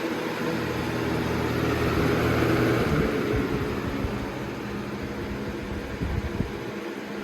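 Galaxy model 4733 box fan running: a steady rush of air from the blades over a low motor hum, growing somewhat louder for a second or two near the middle.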